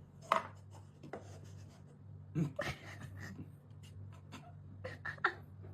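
Scratching and rustling with many short clicks over a low steady hum, and a few brief louder sounds.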